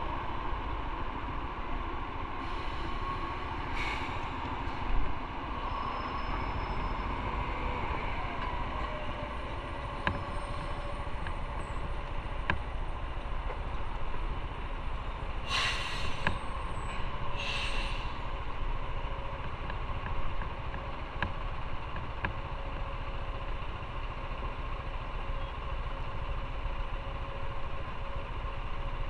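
Motorcycle ride in traffic: steady engine and road rumble, with brief sharp hisses about four seconds in and twice more around the middle.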